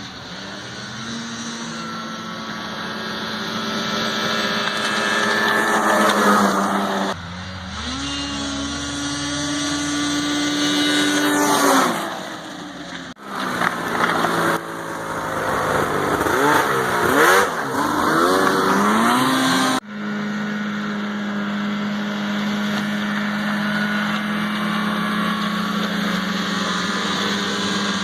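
2017 Arctic Cat M8000 snowmobile's two-stroke 800 twin running hard under different exhaust silencers, in several passes joined by abrupt cuts about 7, 13 and 20 seconds in. The engine note rises and falls with throttle and passing; the last stretch holds a steady high-revving tone.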